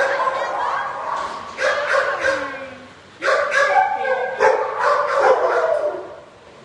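Dogs barking in a shelter kennel, calls overlapping in bouts with brief lulls about three seconds in and near the end.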